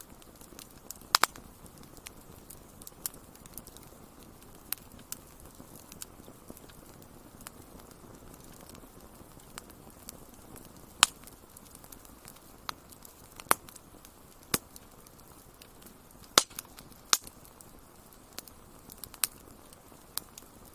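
Wood fire crackling: irregular sharp pops and snaps, a few much louder than the rest, over a steady low hiss.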